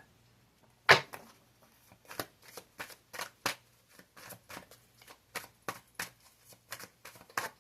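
Tarot cards being shuffled and handled: a string of sharp card clicks, one louder about a second in, then quicker, quieter ones at roughly two to three a second.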